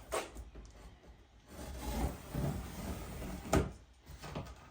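Cardboard packaging rubbing and scraping as the pressure washer's box is handled and opened, with one sharp knock about three and a half seconds in.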